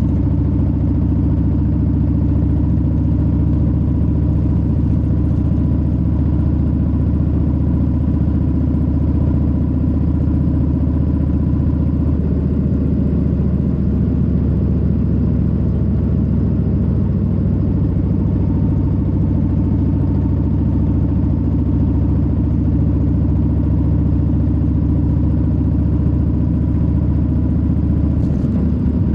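Harley-Davidson Low Rider S's Milwaukee-Eight 117 V-twin running steadily under way, a deep continuous exhaust drone with a slight change in tone about twelve seconds in.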